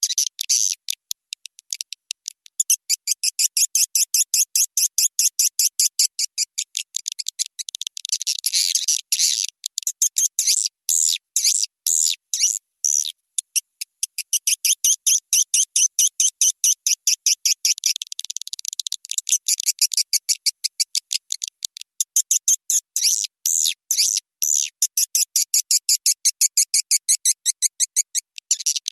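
Recorded swiftlet lure call played back: high, short chirps of edible-nest swiftlets repeated in fast, steady runs, broken by a few short gaps, the kind of calling sound swiftlet farmers play to draw birds to a nesting house.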